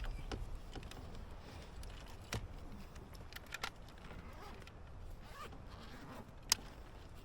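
Fishing gear being handled while a caught bass is hung on a scale: scattered sharp clicks and light rustling, the loudest click near the end.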